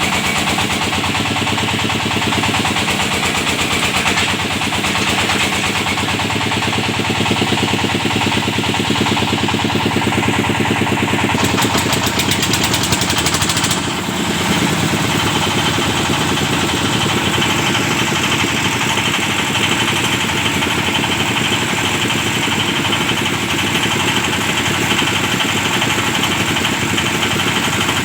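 The engine of a hydraulic well-drilling rig running steadily under power, with a rattle for a few seconds about halfway through.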